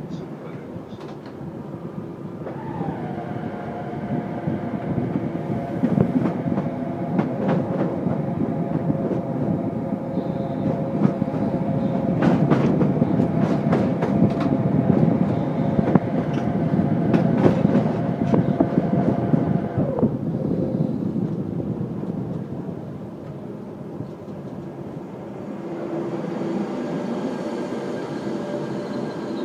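Train running over the tracks and points of a rail yard, heard from on board: a steady rolling rumble with sharp clicks as the wheels pass rail joints and switches. A steady whine rides on it and drops away about twenty seconds in, after which the rumble is quieter.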